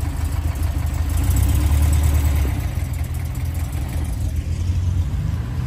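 Air-cooled rear engine of a classic red Porsche coupe running steadily at low revs, swelling a little about a second in and then settling back.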